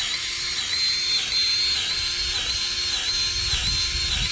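Cordless electric grease gun running, its motor whining steadily and pulsing about twice a second as the pump strokes, forcing grease through the plow knuckle's fitting until it purges out the other hole.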